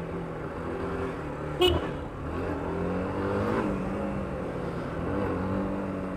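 Yamaha YBR125's single-cylinder four-stroke engine running while riding, its pitch falling and then rising again with the throttle. A short sharp click about one and a half seconds in is the loudest moment.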